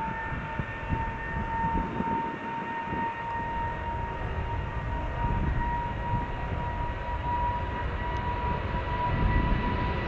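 Jet airliner engines whining over a low rumble. The whine is one steady tone that slowly rises in pitch, and the rumble grows louder toward the end.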